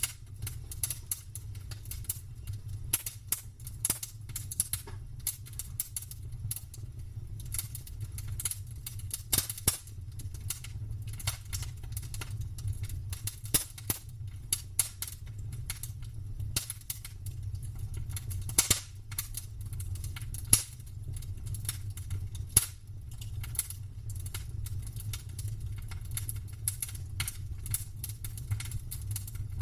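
Campfire wood fire crackling: irregular sharp snaps and pops of burning wood, a few louder pops standing out, over a steady low rumble.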